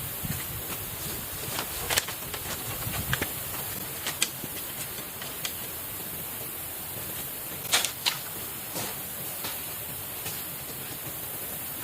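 Steady rush of flowing river water, with scattered light clicks and knocks over it. The sharpest two come close together a little past the middle.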